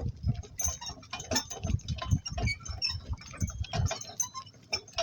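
Donkey-drawn work cart on the move: an irregular run of clicks, knocks and rattles from hooves, harness and cart, over a low rumble that drops away about four seconds in.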